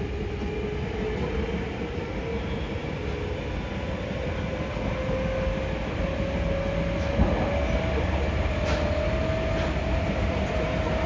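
Hankyu 5300 series train's resistance-controlled traction motors whining with a pitch that rises steadily as the train gathers speed, over a steady wheel-and-rail rumble heard inside the carriage. A few light clicks come in the second half.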